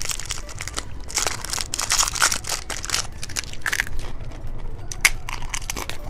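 Close-up crunching and chewing of a small umbrella-shaped biscuit, an irregular run of crackly bites.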